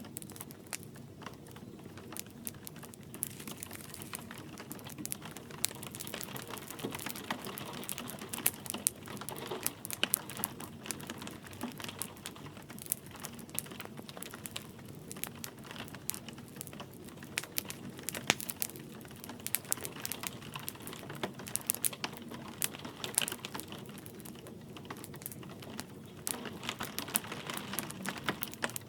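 Wood fire crackling in a fireplace, with frequent irregular sharp pops, over a steady soft hiss of light rain.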